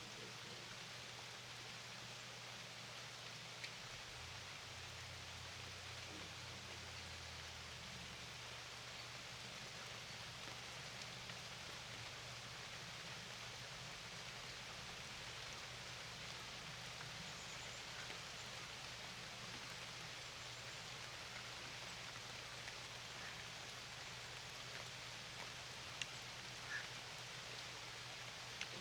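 Steady rain falling on a lake: a faint, even hiss, with a few louder single drop ticks near the end.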